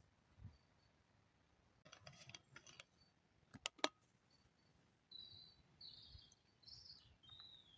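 Faint bird chirps in the woods, short high notes repeated over the last few seconds, one falling at the end. Before them comes some rustling, then two sharp clicks close together near the middle.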